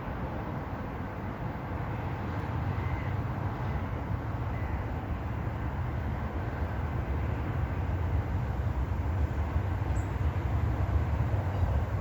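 Low rumbling noise that slowly grows louder.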